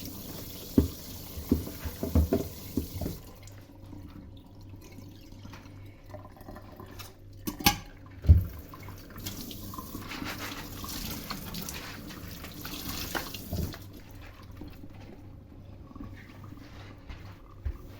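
Kitchen tap running into a sink, shut off about three seconds in. It is followed by scattered knocks and clinks of dishes or utensils being handled, the loudest a pair of knocks about eight seconds in.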